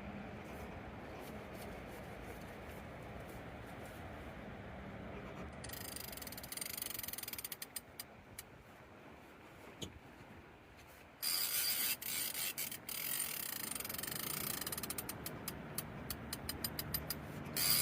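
Fishing reel ratcheting and clicking under a big sturgeon's pull, faint at first and much louder from about eleven seconds in.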